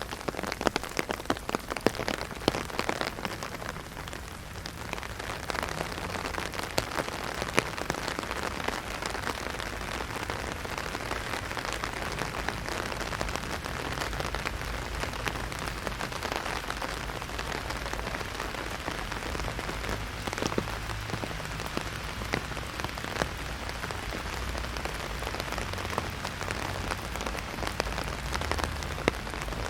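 Heavy rain hitting an umbrella overhead: a steady hiss of rainfall full of many sharp, separate drop strikes on the canopy.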